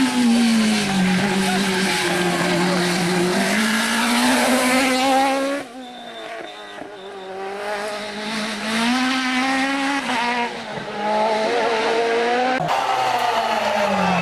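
Rally kit car engines revving hard, the pitch climbing and dropping sharply with each gear change and lift. The sound changes abruptly twice, once to a quieter, more distant car for a few seconds.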